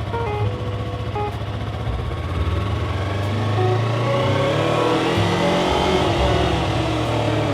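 Motorcycle engine pulling in first gear; the revs climb over a couple of seconds and then hold high.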